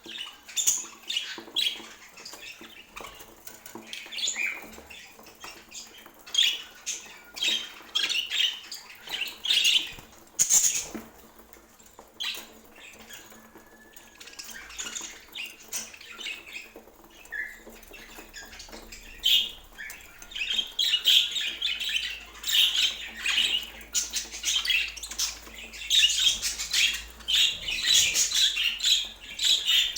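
Pet budgerigars chattering and chirping in quick, high bursts, getting busier and louder in the last third.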